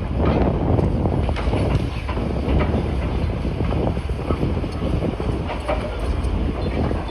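Demolition machinery working: a heavy, steady rumble with frequent irregular clanks and knocks of metal and rubble.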